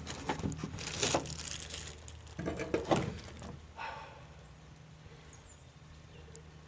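A few short knocks and clatters of things being handled, fading after about three and a half seconds to a faint steady low hum.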